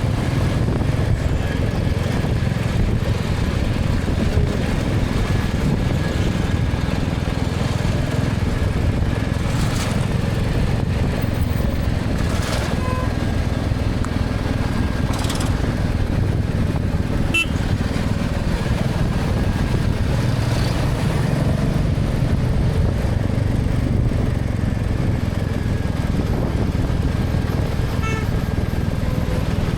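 Motorcycle running steadily at road speed, heard from the rider's helmet camera, with occasional faint horns from the surrounding traffic.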